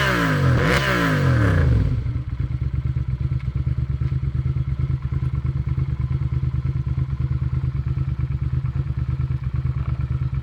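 Suzuki SV650's 645 cc 90-degree V-twin, fitted with an Arrow exhaust, idling with a steady, even low beat. Background music plays over it for about the first two seconds and then cuts off.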